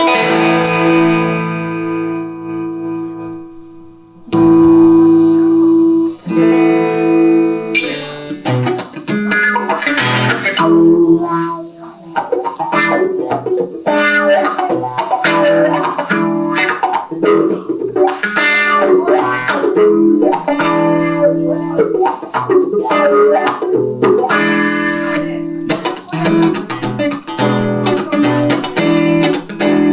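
Electric guitar, a Telecaster through a Roland JC-120 amp with overdrive pedals, playing an instrumental passage. A chord rings out and fades, two more chords are struck about four and six seconds in, and from about eight seconds in it plays fast single-note lines.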